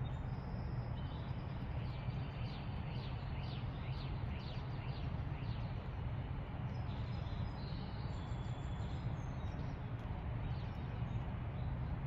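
Songbirds chirping: a run of quick, falling chirps through the first half, then a few higher, thinner notes around the middle, over a steady low background rumble.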